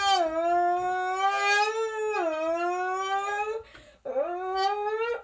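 A creased, flattened drink can blown through like a reed, giving a loud buzzy note that imitates a Lamborghini engine. The pitch climbs, drops suddenly about two seconds in and climbs again like an engine shifting up a gear; the note breaks off after about three and a half seconds, then a second blow starts with a dip and rises until near the end.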